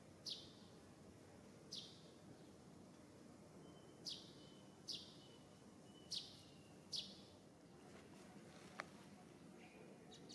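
A bird calling: six quick, high, falling chirps at irregular intervals, some trailing off into a short steady whistle, over a faint outdoor hush.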